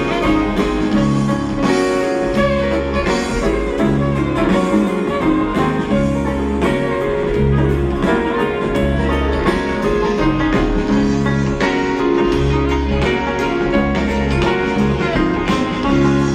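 Instrumental acoustic string-band music: guitar and fiddle over a steady, repeating bass line, with no singing.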